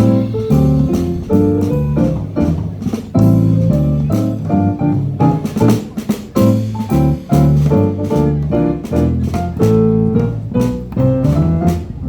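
Small jazz band playing a tune live, with keyboard over a moving bass line.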